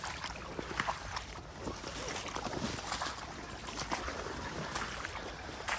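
A person wading on foot through shallow floodwater, the water sloshing and splashing irregularly with each step.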